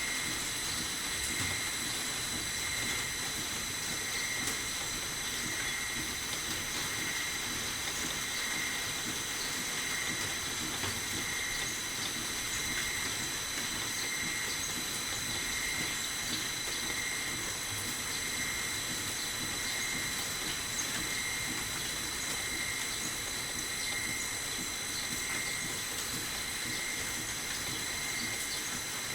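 Small lathe running steadily, its motor and spindle giving a high, even whine that pulses about once a second.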